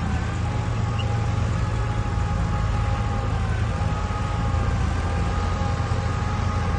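Heavy diesel earthmoving machinery running steadily: a low engine drone with a high whine above it that dips slightly about three and a half seconds in.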